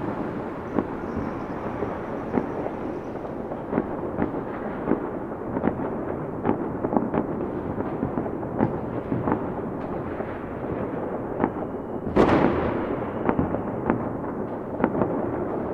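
Fireworks going off: many short, overlapping bangs and crackles over a steady rumble, with one louder bang about twelve seconds in.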